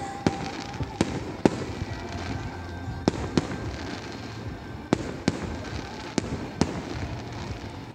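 Fireworks display going off: about ten sharp bangs at uneven intervals, with a continuous rumble of smaller bursts between them.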